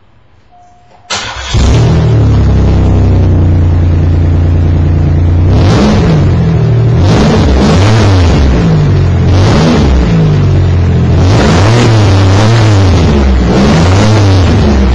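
Pontiac Bonneville engine starting about a second in, then idling and being revved several times, each rev rising and falling in pitch, through a newly fitted Cherry Bomb glasspack muffler with a turned-down side-pipe tip.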